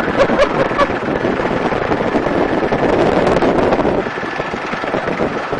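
Helicopter in flight heard from inside the open cabin: engine and rotor noise with wind rushing over the microphone, swelling for a couple of seconds mid-way through a sharp manoeuvre, with a faint steady high whine.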